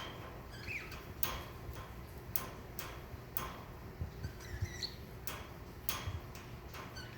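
Sharp ticking clicks at uneven intervals, with a few soft, faint chirps from a budgerigar.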